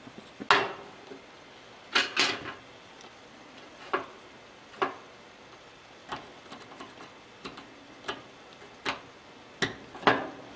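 Irregular sharp clicks and knocks, about a dozen, from a wooden knife-handle blank and metal tools being handled and set down. The loudest come near the start, a close pair about two seconds in, and another pair near the end.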